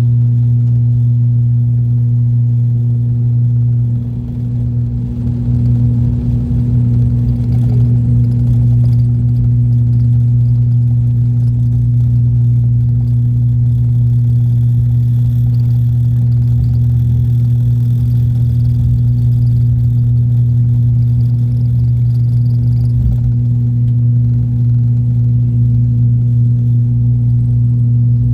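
Steady drone of the ATR 42-600's Pratt & Whitney PW127 turboprops and their six-blade propellers, heard inside the passenger cabin as a deep, even hum over rumble. The loudness dips briefly about four seconds in, then holds steady.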